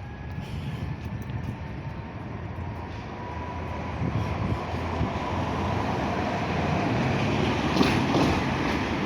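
Tram approaching and growing steadily louder, with a faint motor whine and a few sharp wheel clicks near the end.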